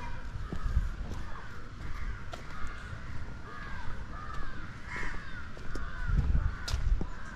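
Birds calling over and over in short arched calls, crow-like caws, over a low rumble that swells near the end.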